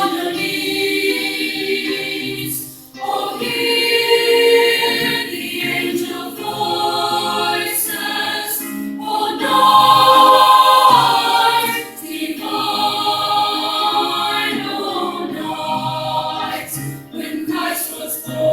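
Junior high school chorus singing a choral piece in sustained chords, with brief breaks between phrases about three and twelve seconds in.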